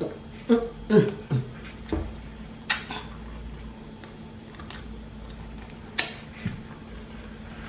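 Eating sounds with a few sharp crunch-like clicks, about two seconds in, again just under three seconds in, and once more at six seconds, over a steady low hum. There are short voiced mouth sounds in the first second and a half.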